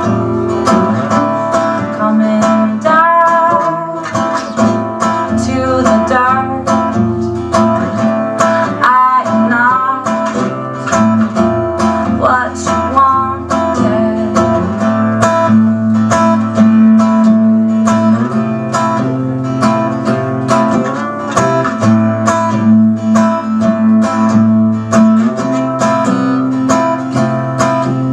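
Acoustic guitar strummed steadily through a song's instrumental passage, with a higher melody line that bends in pitch over it in the first half.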